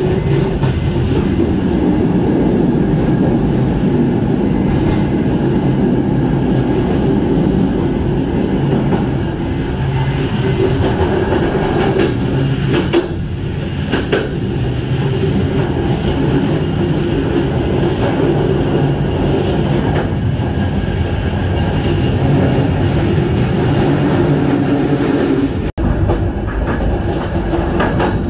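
Passenger train running on the rails: a steady rumble with a few sharp clicks from the wheels. The sound cuts out for a moment near the end, then resumes.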